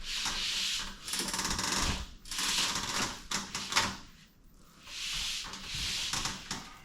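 Rhythmic rubbing or scraping strokes of a hand tool working a surface, as in hand sanding or rasping, about one stroke a second with a short pause about four seconds in.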